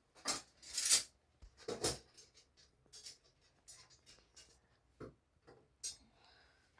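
Irregular clatter of household things being handled: a string of separate clinks and knocks at uneven spacing, the loudest about a second in.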